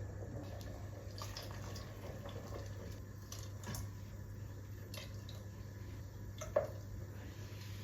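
A few faint, separate small clicks over a steady low hum.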